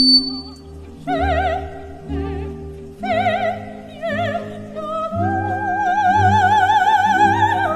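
Operatic singing in a high voice with wide vibrato over orchestral accompaniment: short phrases, then a long held note from about five seconds in that slides down at the end.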